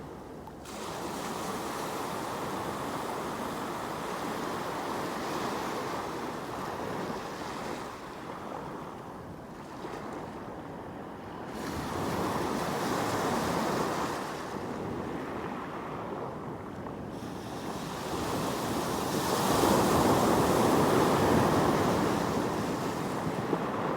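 Sea waves surging and washing onto the shore in slow swells, each building and falling away over several seconds, the biggest near the end.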